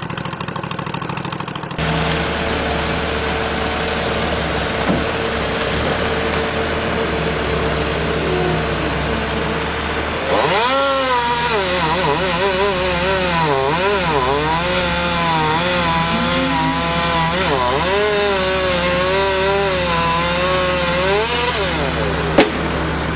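Two-stroke chainsaw running. About ten seconds in it revs higher and louder, its pitch wavering up and down as it cuts, then drops back near the end. There is a single sharp knock just before the end.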